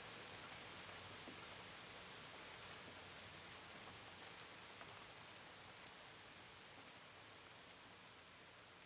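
Steady hiss of gentle rain with scattered drips, under a cricket's evenly spaced high chirps, all slowly getting quieter.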